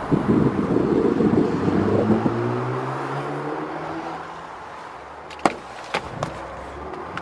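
Supercharged 5.0-litre V8 of a Range Rover Sport SVR revved hard, the revs then falling away over a couple of seconds to a low steady running note. Near the end come three sharp cracks.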